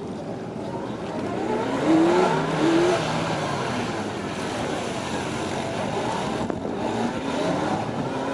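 Police motorcycle engines revving up and down during practice riding, their pitch rising and falling; loudest about two to three seconds in.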